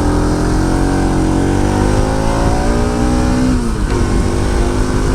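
Motorcycle engine pulling under throttle, its note climbing steadily for about three and a half seconds, then dropping sharply and holding steady.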